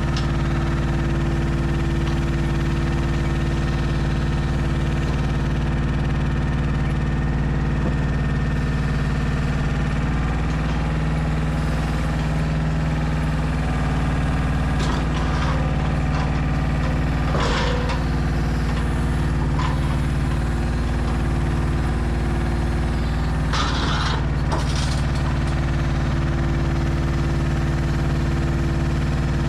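Heavy diesel engine running steadily at a constant speed, with its note shifting slightly about ten seconds in. Short hissing bursts come a few times over it.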